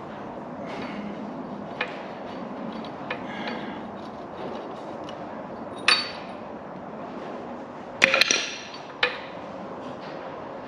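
Metal engine parts and hand tools clinking and knocking during an engine strip-down: a few sharp metallic clinks that ring briefly, with a quick loud cluster about eight seconds in, over a steady low hum.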